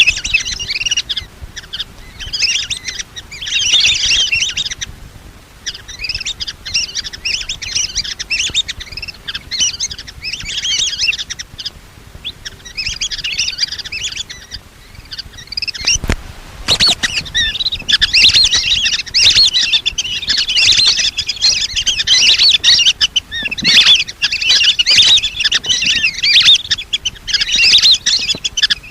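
Lesser whistling ducks calling: many high, chattering whistles in bouts separated by short pauses, getting denser in the second half, with one sharp click about 16 seconds in.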